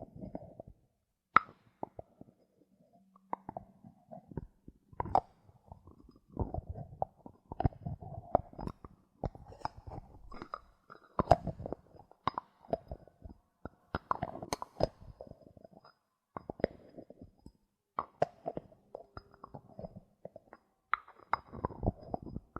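Bottle caps being handled for ASMR triggers: irregular taps and clicks mixed with short scratchy rustles, with a sharp click about a second and a half in.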